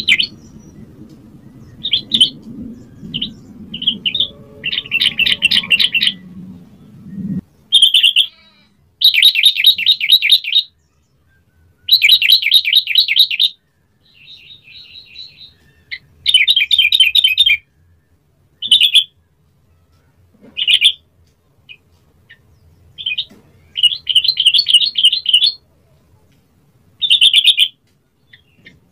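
A yellow-vented bulbul singing in a series of rapid, chattering phrases. Each lasts from a fraction of a second to nearly two seconds, with short pauses between them.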